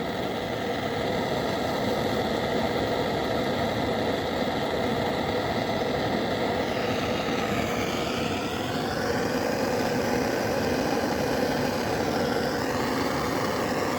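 Steady motor hum, with a fainter higher whine that drifts in pitch about halfway through and again near the end.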